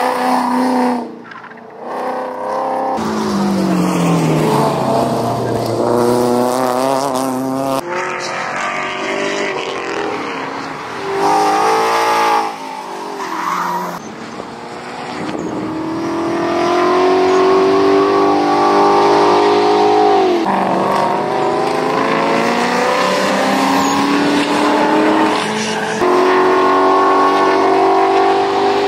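Ford Mustang GT's 5.0-litre V8 being driven hard: the engine note climbs steadily under full throttle and drops at gear changes, with falling-pitch slow-downs and a pass-by, in several short cut-together clips.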